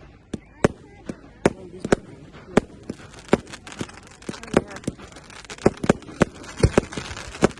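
Firework display: aerial shells bursting in a rapid, irregular run of sharp bangs, a dozen or more, with a fizzing crackle building from about halfway through.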